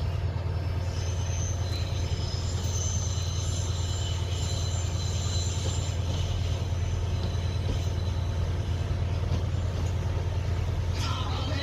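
A train in the station with a steady low running hum, and a thin, high-pitched wheel or brake squeal from about a second in until halfway through.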